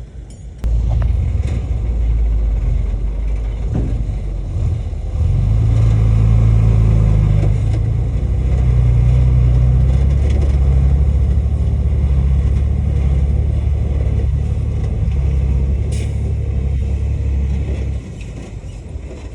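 Heavy diesel earthmoving machine engine running loudly with a deep, steady note, its revs rising about five seconds in as it works under load; the sound starts suddenly and cuts off abruptly near the end.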